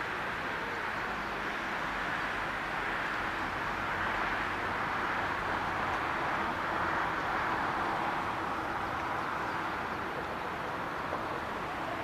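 Jet engines of a Boeing 787-9 airliner, a steady rushing that swells for a few seconds and then eases off.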